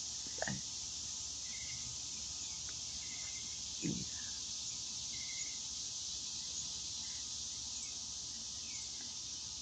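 Steady high-pitched summer insect chorus, with short bird chirps every second or two and two brief louder sounds about half a second and four seconds in.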